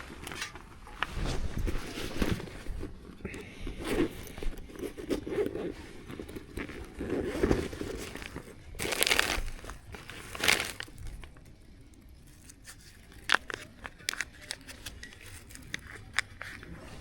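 Irregular crinkling and rustling handling noises with scattered small knocks and clicks, loudest in two rustles about halfway through.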